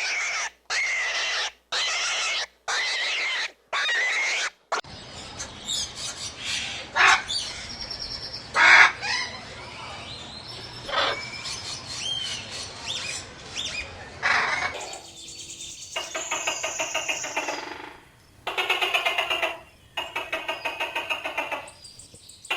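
Farm animals calling in turn: a string of five pitched calls about a second each at the start, then scattered bird chirps and chicken calls over a low background rumble, then several bursts of rapid, pulsing calls in the last seven seconds.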